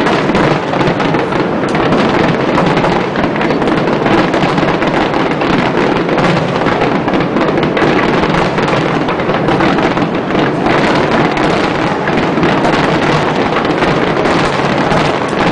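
Fireworks display in a continuous barrage: many bursts and crackles overlapping with no break.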